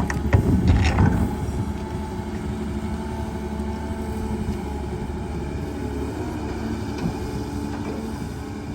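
Excavator's diesel engine running steadily, with a few sharp knocks and clanks in the first second or so.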